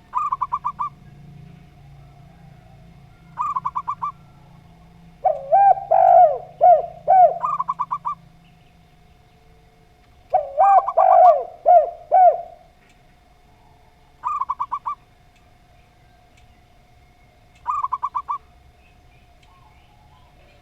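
A zebra dove and a spotted dove cooing. Short, rapid trilled phrases come again every three to four seconds, and twice a louder, lower run of several coos lasts two to three seconds, over a faint steady hum.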